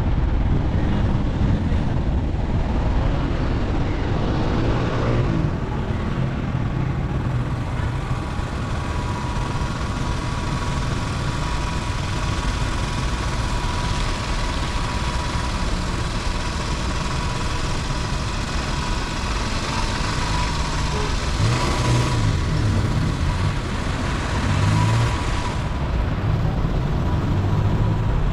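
A car driving along a road: a steady rumble of engine and tyre noise, with a faint steady whine running through it.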